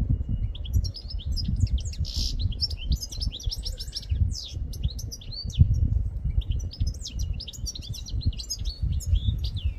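A small songbird singing a fast, continuous twittering song of quick high notes, some rising and some falling, with a short lull midway. A low rumble runs underneath.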